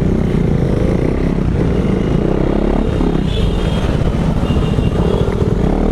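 KTM Duke 390 single-cylinder engine running steadily as the motorcycle rides along.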